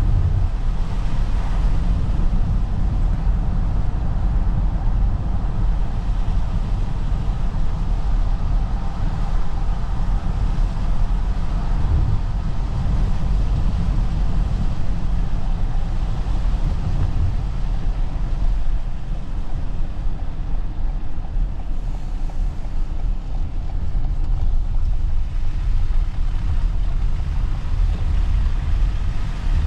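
Steady low rumble of tyre and road noise inside the cabin of a Toyota RAV4 hybrid driving on snow-covered roads. It eases slightly about two-thirds of the way through, then builds again.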